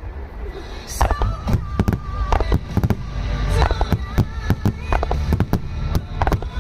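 Aerial fireworks bursting in quick succession, a dense run of sharp bangs and crackles, with music playing alongside.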